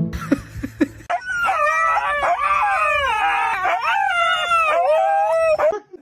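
Dog howling: one long, wavering howl that starts about a second in and breaks off sharply near the end.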